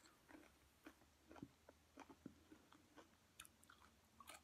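Faint chewing of soft food: quiet wet mouth clicks and smacks, a few a second.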